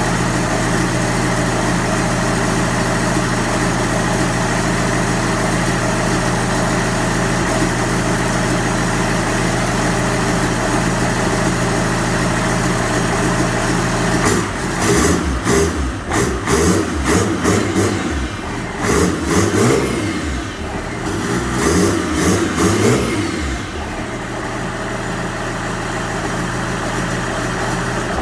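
BMW M57 three-litre straight-six turbodiesel running at a steady idle. About halfway through it is blipped up and down several times, then it settles back to idle.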